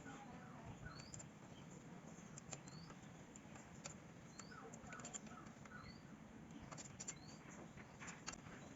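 Faint short high chirps, rising in pitch, repeating about once a second like a small bird calling, with a few light clicks scattered through.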